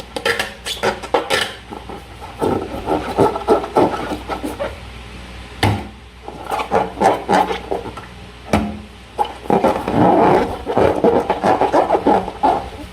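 Hands squeezing and working slime, with sticky crackling and squelching pops that come and go, and a couple of sharper clicks along the way.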